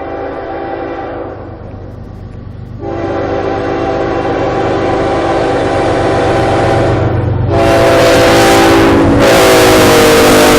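CN freight train's locomotive air horn blowing long blasts as the train approaches, growing louder, with a brief break about a second in. About seven and a half seconds in, the loud rush of the locomotive and train passing close by joins the horn.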